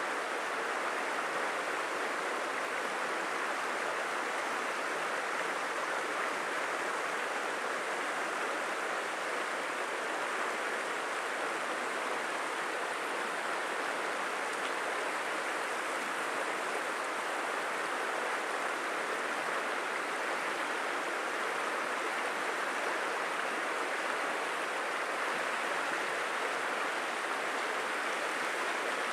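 A stream flowing: a steady, even rush of running water that holds at one level throughout.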